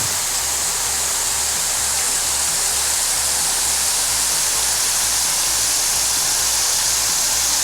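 A pergola's rain curtain: a sheet of water falling from an overhead manifold and splashing down in a steady, even rush.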